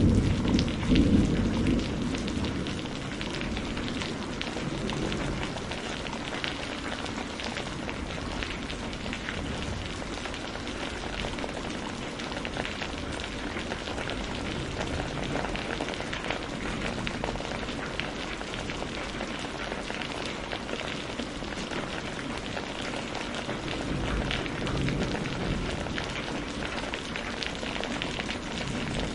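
Steady rain with a dense patter of drops, while a roll of thunder dies away over the first couple of seconds. A faint low rumble swells briefly again about 24 seconds in.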